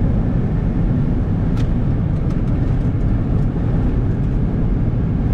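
Steady road and engine noise heard from inside a moving car, with a faint tick about a second and a half in.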